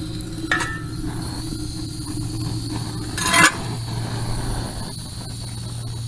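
Steady low hum from the running rocket-stove water heater, just lit, with water being pumped through its heat exchanger. There is a short click about half a second in and a brief scrape a little after three seconds.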